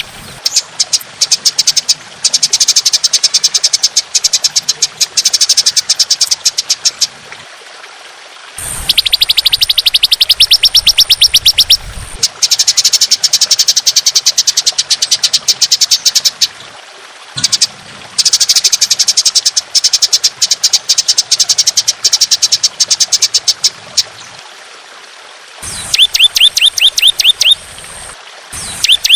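Songbird singing long, harsh 'tembakan' phrases: very fast trains of sharp, high repeated notes delivered in bursts of a few seconds with brief pauses between them. Near the end one burst is a run of quick sweeping whistled notes.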